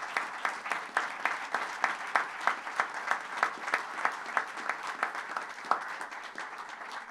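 Audience applauding, with a few nearby claps standing out in a steady beat; the applause thins out near the end.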